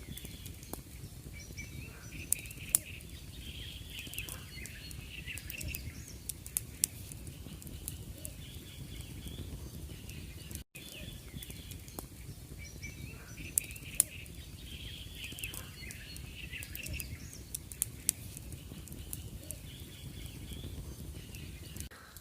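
Birds chirping over a low steady rumble, with scattered sharp clicks; the sound cuts out for an instant about halfway through.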